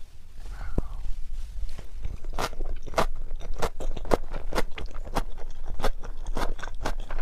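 Crunchy food being bitten and chewed close to the microphone: soft chewing at first, then from about two seconds in a quick run of crisp crunches, roughly two a second.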